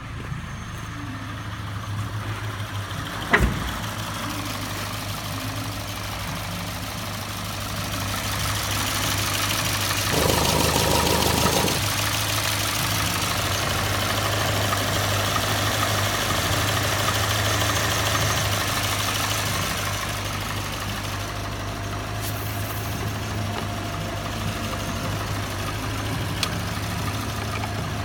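Renault F3R 2.0-litre four-cylinder petrol engine idling steadily. It grows louder for a stretch in the middle, and there is a single sharp knock about three seconds in.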